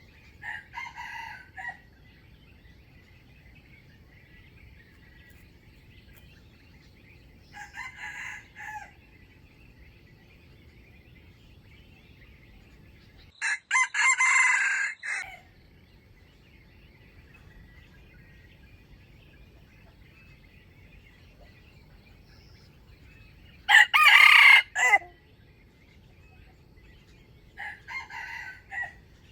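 Wild junglefowl roosters crowing: five short crows spaced several seconds apart, the third and fourth much louder than the others.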